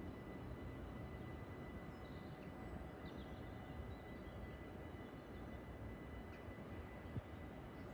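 A steady, quiet low rumble outdoors, with a few faint bird chirps over it and a single small click near the end.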